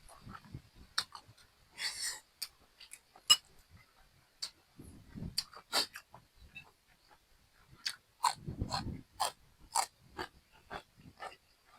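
A person eating a home meal of rice: chewing, with many short, irregular sharp clicks of utensils against a bowl or plate.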